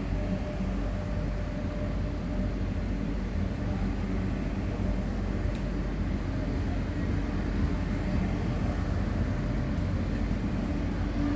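Train at a station platform, a steady low rumble with a faint held hum.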